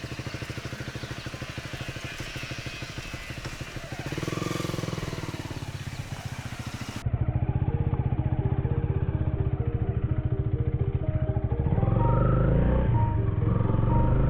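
Honda Rebel 250 motorcycle engine idling with steady firing pulses, briefly revved about four seconds in. About seven seconds in the sound cuts to a louder, muffled engine drone with background music coming in over it.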